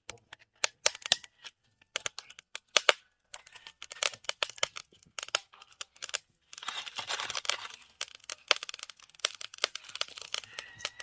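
Charcoal fire crackling and popping hot under a cooking pot: irregular sharp snaps, thickening into denser crackle about two-thirds of the way through.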